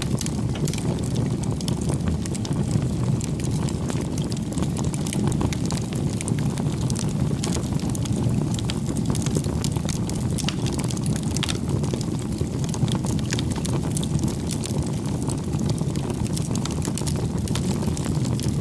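Wood fire crackling: frequent small, irregular pops and snaps over a steady low rush of burning.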